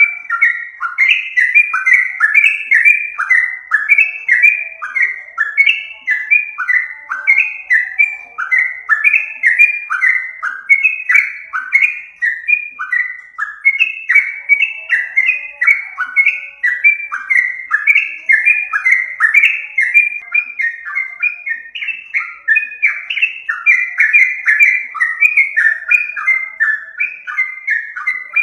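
Yellow-vented bulbul (trucukan) calls played as a lure: short notes repeated several times a second without a break.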